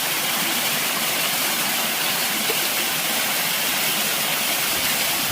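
Waterfall rushing steadily into a pool, a constant hiss of falling water.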